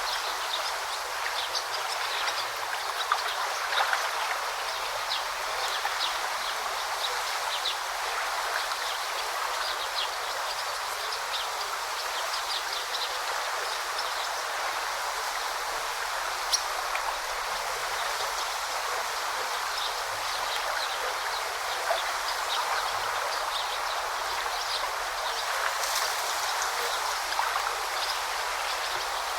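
A babbling forest brook: water flowing and rushing steadily, flecked with many brief high-pitched ticks and splashes.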